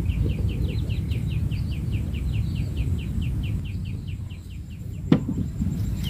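A bird calling in a rapid, even series of short high chirps, about five a second, which stops about five seconds in, over a steady low rumble of wind on the microphone. A single sharp click comes just after the chirping stops.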